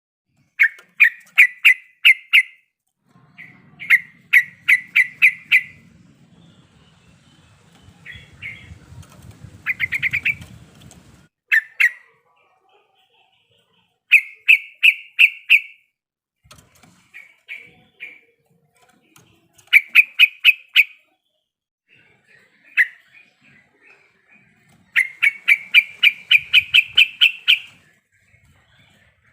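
Yellow-vented bulbul (trucuk) singing in runs of quick repeated notes. Each run lasts a second or two and comes back every few seconds, with a faint low rumble underneath about a third of the way in.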